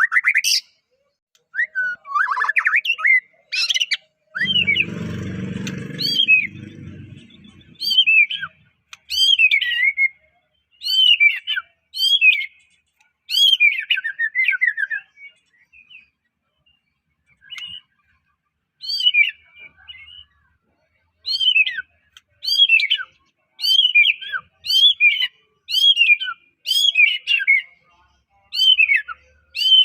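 White-rumped shama singing: bouts of short, rapid whistled phrases that sweep sharply up and down, with a pause of a few seconds midway and fast, regular phrases about one a second near the end. A low buzzing noise runs for about three seconds early on, under the song.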